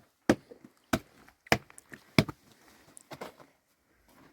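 Chopping strikes into wood: five sharp blows about two-thirds of a second apart, then a few fainter knocks.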